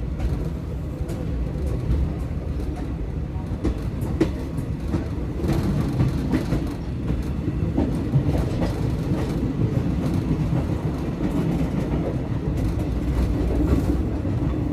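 Passenger train running along the track: a steady low rumble of the carriage with scattered clicks and knocks from the wheels on the rails.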